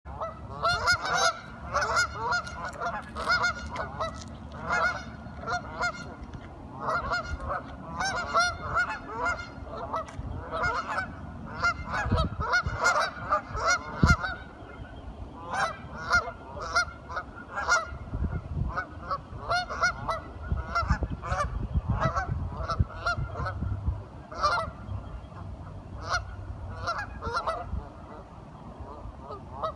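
A group of waterfowl calling: short calls come in quick, overlapping runs with brief pauses. There is a sharp knock about 14 seconds in.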